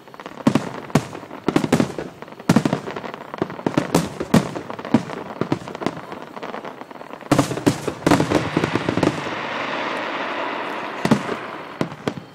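Aerial fireworks shells bursting in rapid succession, many sharp bangs with echoing tails. Past the middle the bangs give way to a steady hiss lasting about three seconds, before a few more bangs near the end.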